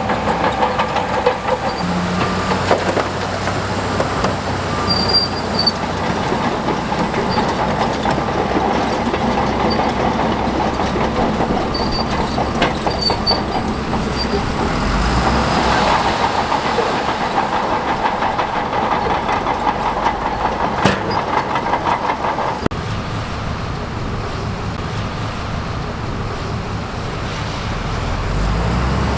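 Crawler earthmover's diesel engine running under work with its steel tracks clattering and squeaking as it moves. The engine gets louder and deeper near the end.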